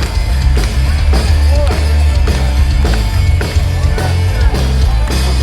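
Loud live rock band playing through a PA: heavy bass with a steady drumbeat and electric guitar.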